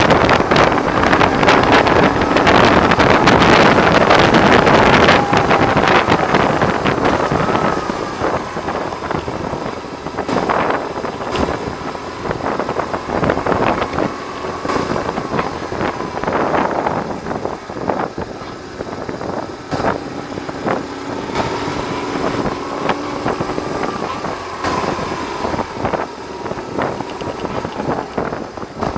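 Riding sound from a BMW R1100R's boxer twin engine, heavily buffeted by wind noise on the microphone, which the rider puts down to the screen. The wind and engine are loudest for the first five seconds or so, then ease, with the engine note rising and falling.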